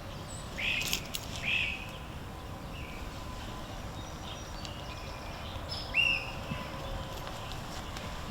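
A small bird chirping outdoors: three short, high chirps, the loudest about six seconds in, over a steady low background hiss.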